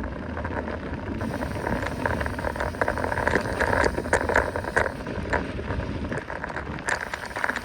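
Mountain bike riding fast downhill on a dirt trail: a steady low rumble from the tyres over the ground, with many quick clicks and rattles from the bike throughout.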